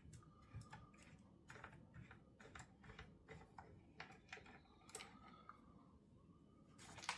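Faint, irregular small clicks and taps from hand tools and screws being worked on a chainsaw's plastic housing.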